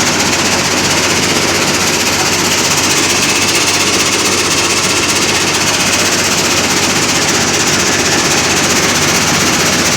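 Diesel-driven stone-grinding machine and sieve running steadily, with a loud, dense, rapid rattle.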